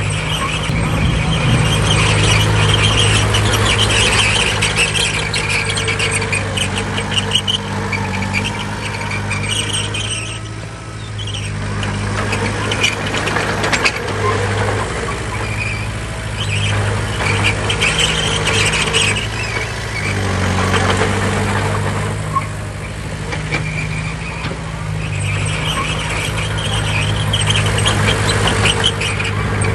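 Diesel engine of heavy earthmoving machinery running, its pitch shifting a couple of times, with repeated stretches of high metallic squealing over it.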